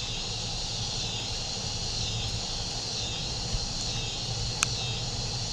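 Evening insect chorus chirping in a steady, pulsing drone, over a faint even hiss of very light rain. A single sharp click sounds about four and a half seconds in.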